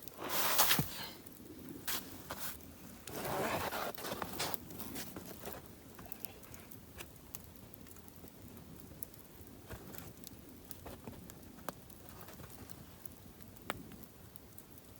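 Campfire crackling with faint scattered pops and ticks, after a few louder rustling handling noises in the first few seconds.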